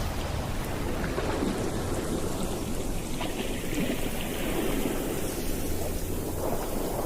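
Steady rushing noise of sea and wind, with a low rumble underneath.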